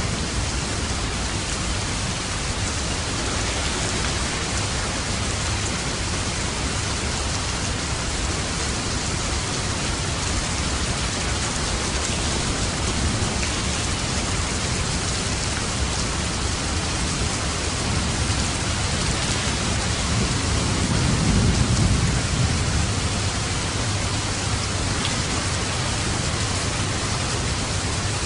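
Steady rain falling, an even hiss of many drops. About three quarters of the way through, a low rumble of distant thunder swells and fades under the rain.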